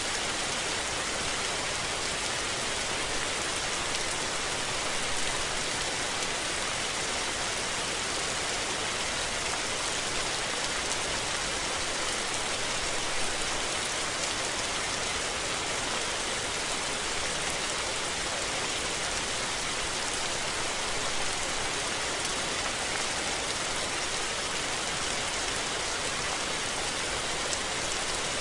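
Steady rain falling, an even hiss of drops on surfaces with no thunder.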